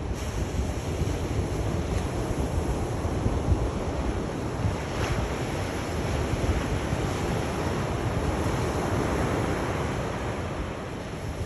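Sea surf washing continuously onto a shore, a steady rushing of waves, with a low rumble of wind on the microphone.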